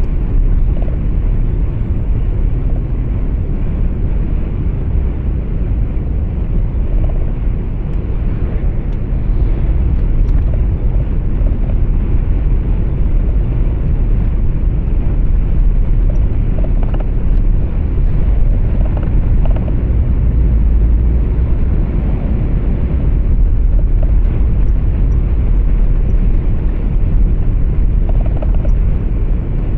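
Steady low rumble of a truck's engine and tyre noise heard inside the cab.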